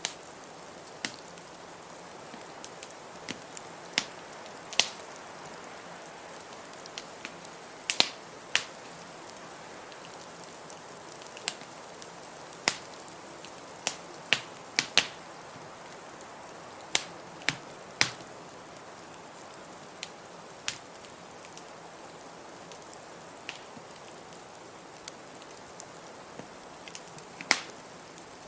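Wood fire in a fireplace crackling, with sharp pops at irregular intervals, roughly one a second, over a steady hiss.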